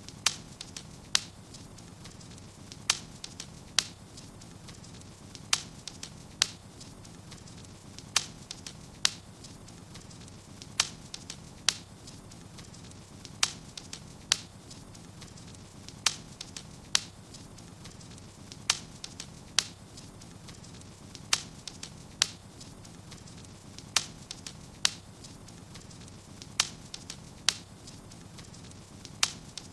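Wood fire in a fireplace crackling, with sharp pops that come in pairs about a second apart and repeat at an even pace over a steady low rumble of the burning.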